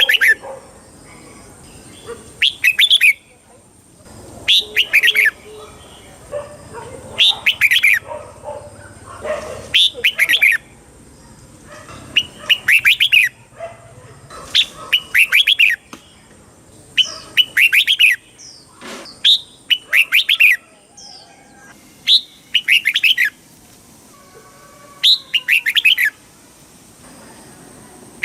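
Red-whiskered bulbul singing. It repeats short, bright phrases of quick falling notes about every two to three seconds, the kind of chao mao song that is played to caged bulbuls to rouse them.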